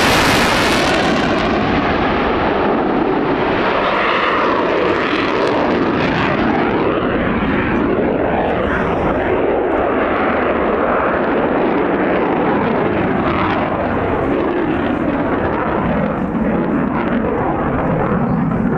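Aircraft engine noise, loud and sustained as an aircraft flies past, with the pitch sliding down near the start.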